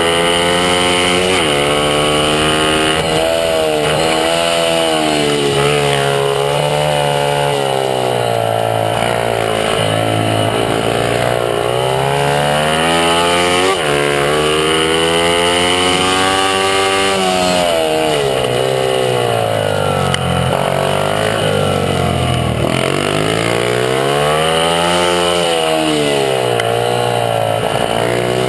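Honda CRF50 pit bike's small single-cylinder four-stroke engine, heard on board while racing flat out: the engine note climbs and then drops over and over as the rider accelerates, shifts and backs off for corners.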